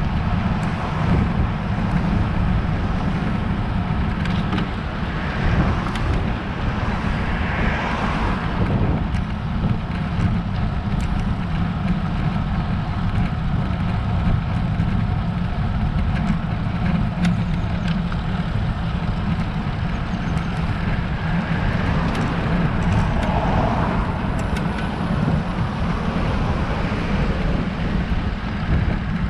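Steady wind rumble on a bike-mounted action camera's microphone, with road noise from a road bike being ridden, and a few faint ticks.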